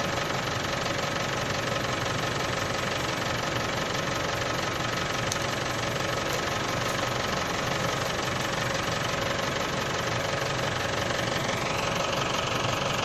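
An engine running steadily at idle, with a sound that rises in pitch shortly before the end.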